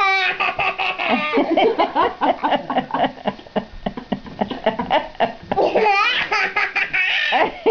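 Baby boy laughing heartily, in a long run of repeated belly-laugh peals.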